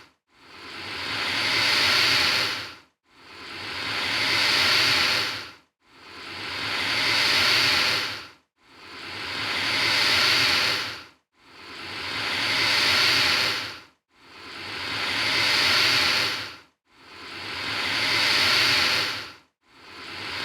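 Alligator hissing: the same breathy hiss repeated over and over, about every two and three-quarter seconds, each one swelling to a peak and then fading out.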